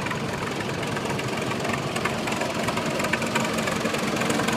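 Vintage tractor engines running steadily, with a dense knocking beat over the engine noise.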